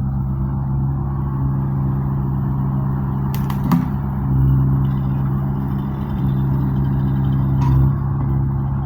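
An engine running steadily at a low, even pitch, swelling slightly twice, with a few sharp knocks over it.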